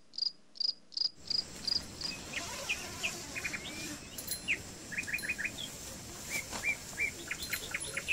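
An insect, cricket-like, chirps in a steady high-pitched pulse about four times a second for the first two seconds. Then birds call with short chirps and quick trills, on and off.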